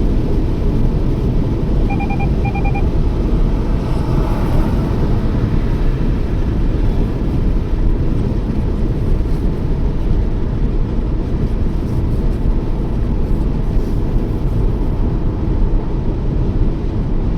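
Toyota Yaris driving steadily at road speed: a constant low rumble of tyre, road and engine noise heard from inside the car. A short double beep sounds about two seconds in.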